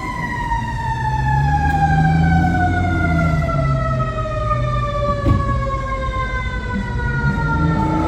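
Fire engine's mechanical siren winding down, its pitch falling slowly and steadily, over the low rumble of the truck's engine.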